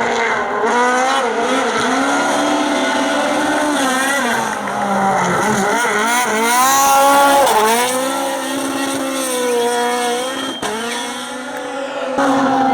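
Race car engine revving hard, its pitch climbing and dropping again and again as the driver accelerates, lifts and shifts. The engine note changes near the end.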